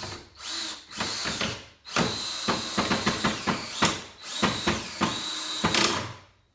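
Power drill driving a screw into wood in several runs of the motor. There are short bursts at first, then two longer runs with a steady whine, stopping near the end. The screw goes in smoothly.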